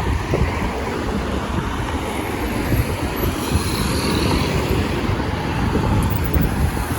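Steady road traffic noise, with wind buffeting the microphone in irregular low rumbles throughout.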